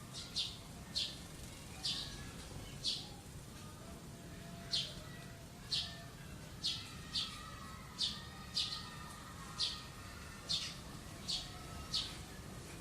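A wild songbird repeating a short, sharp, high chirp, about once or twice a second, with fainter bird calls behind it.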